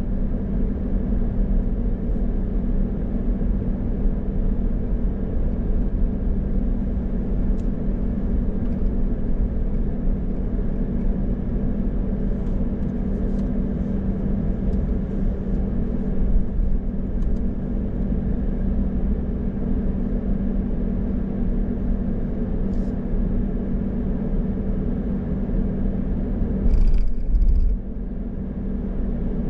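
A car being driven: a steady low drone of engine and road noise. Near the end a brief, louder higher-pitched hiss stands out for under a second.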